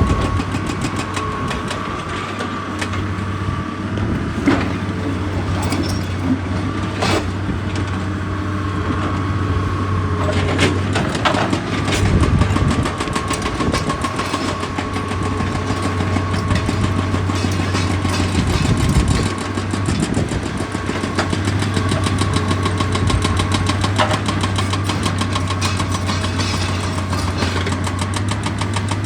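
Heavy diesel machinery running steadily, with a constant low hum and a steady whine over it, and scattered sharp knocks and clanks.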